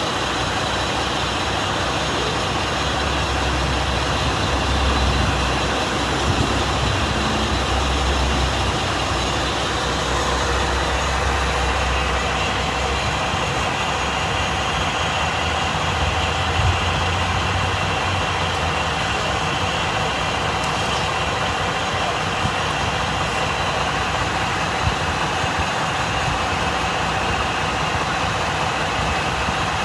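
Heavy truck engines idling steadily, with a constant street hum. A deeper engine rumble swells about three seconds in, holds for about ten seconds, and comes back briefly around sixteen seconds.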